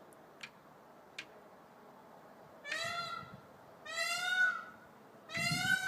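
A bird calling three times, each call under a second long and rich in overtones, with a slight rise and fall in pitch; two faint clicks come before the first call.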